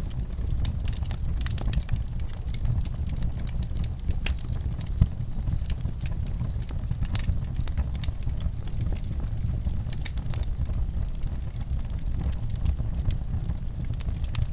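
Fire crackling: irregular sharp pops and snaps over a steady low rumble, with one louder pop about five seconds in.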